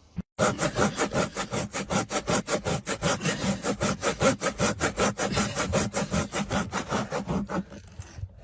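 Rapid, rhythmic rasping strokes, about six a second, like something being sawn or scraped back and forth, starting abruptly just after the start and easing off near the end.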